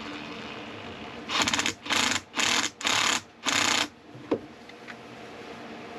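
Ratchet wrench clicking through five quick back-and-forth strokes, tightening a hose clamp on a diesel engine's seawater cooling line, followed by a single sharp click.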